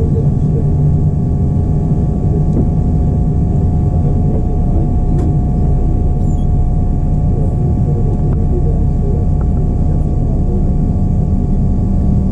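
Cabin noise inside a Boeing 787-9 airliner: a loud, steady low rumble from the engines and airflow, with a few steady whining tones over it.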